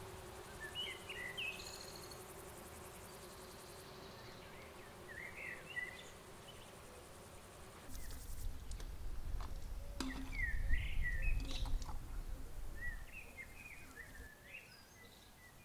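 Small birds singing in short, repeated chirping phrases, over a faint steady insect-like hum. From about halfway in, a low rumble of wind on the microphone rises for several seconds, with a couple of sharp clicks.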